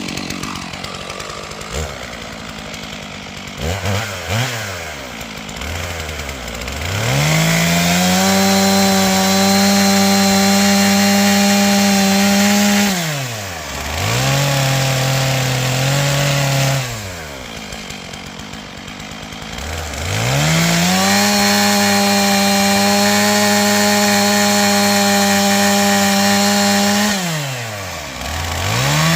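Stihl MS461 chainsaw, its two-stroke engine idling with a couple of quick blips, then run up to full throttle and held there for about six seconds, twice, dropping back to idle in between and revving again near the end.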